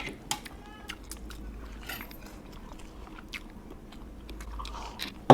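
A person chewing and biting food, with many small, scattered crunchy clicks and mouth noises.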